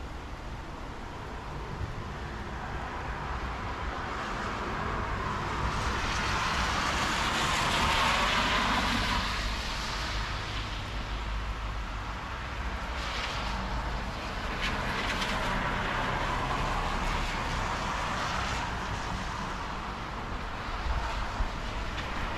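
Vehicles passing by, each a rush of noise that swells and fades: one peaks about a third of the way in, another in the second half.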